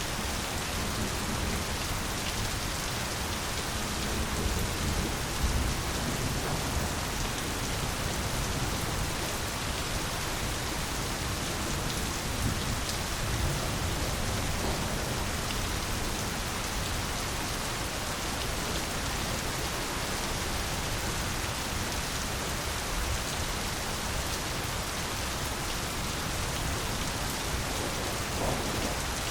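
Steady rain falling, an even hiss of many drops. Low rumbles of distant thunder swell about five seconds in and again around thirteen seconds.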